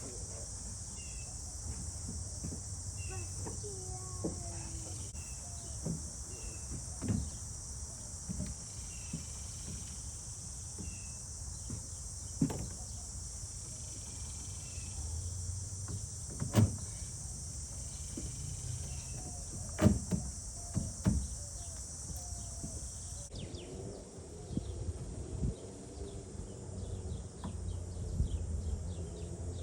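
Insects droning in a steady high buzz that cuts off suddenly about 23 seconds in, with birds chirping over it and a few sharp knocks.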